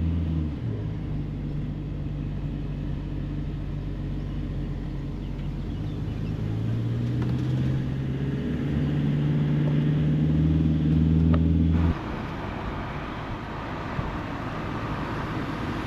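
Motorhome engine running on the move, a low steady hum that steps up and down in pitch a few times. About twelve seconds in it gives way to an even rush of road and wind noise.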